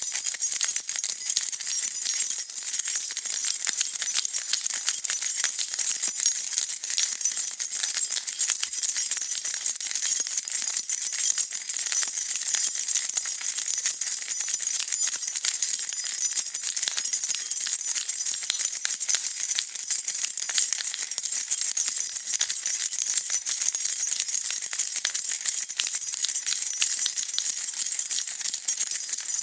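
A bunch of metal keys being shaken continuously, a dense, unbroken jingling of small clinks.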